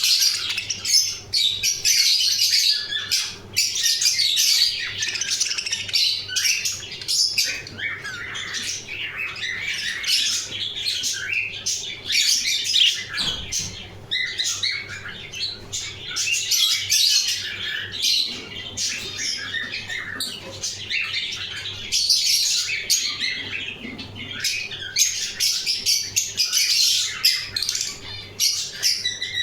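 A flock of budgerigars chattering without a break, many chirps, warbles and squawks overlapping.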